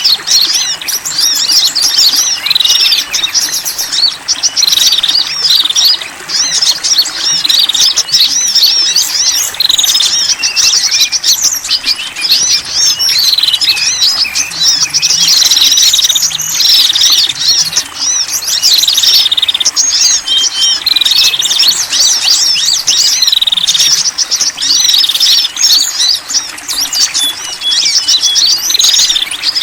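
Many small songbirds chirping and twittering densely and without pause, overlapping calls of several kinds: a bird-lure recording that combines the calls of small wild birds.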